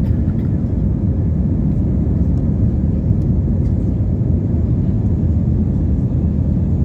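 Steady low rumble of an Airbus A320-232 heard from inside the passenger cabin: its IAE V2500 jet engines and the airflow running evenly, with no change in pitch or level.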